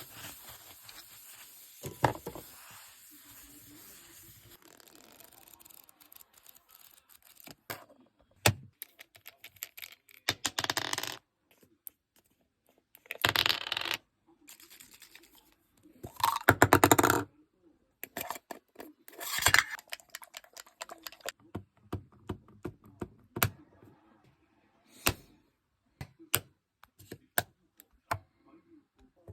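Cosmetic containers being handled: a run of small clicks and taps of caps and cases, with a television's voice coming through in several short stretches in the background.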